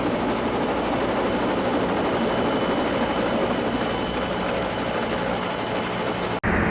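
Helicopter noise, a steady engine and rotor din with a low beat. It cuts off abruptly near the end as a different clip starts.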